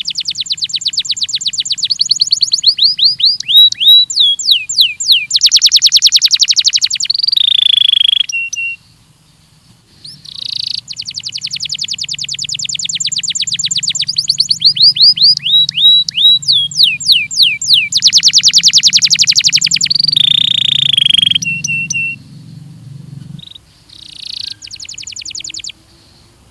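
Belgian canary singing: long song phrases of rapid trills and quick downward-sweeping notes, a short pause about nine seconds in, then a second long phrase and a short one near the end.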